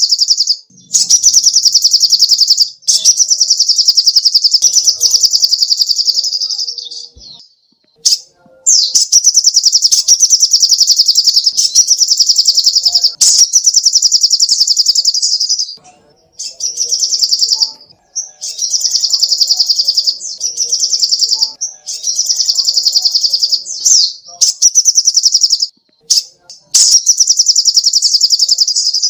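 Little spiderhunter (sogok ontong) singing: rapid, high-pitched trills of fast repeated notes, in phrases of one to three seconds with short breaks between.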